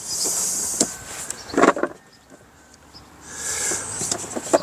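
Wooden chess case being handled and worked at, with a few sharp knocks and clicks as loose chess pieces rattle inside, the loudest knock a little past halfway through. Two stretches of hiss, at the start and near the end.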